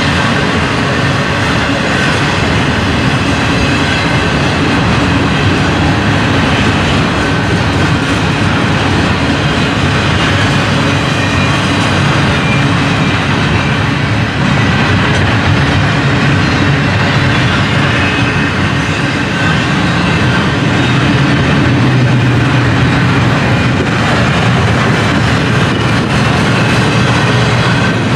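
Double-stack container well cars of a long freight train rolling past: a steady, loud sound of steel wheels running on the rails.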